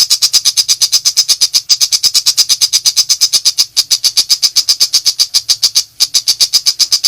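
Long-tailed shrike (pentet) in full rapid-fire 'nembak' song: a fast, even run of short notes, about eight a second, with a brief break about six seconds in.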